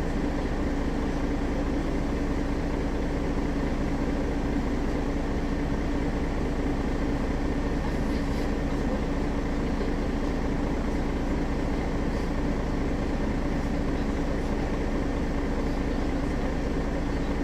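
Mercedes-Benz Citaro facelift city bus engine running steadily, an even hum that holds one pitch.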